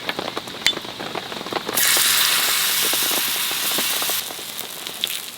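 Rain pattering with scattered small ticks and crackles, and a loud hiss of about two and a half seconds that starts suddenly near the middle and cuts off sharply.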